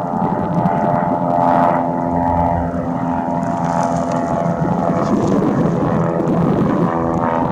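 Propeller aircraft's engine running with a steady, even drone.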